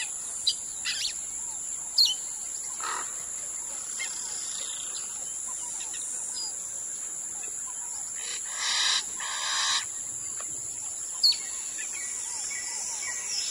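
Wild birds calling in riverside forest: a few short, sharp falling chirps, and two louder, harsh calls of about a second each past the middle. A steady high-pitched drone runs underneath.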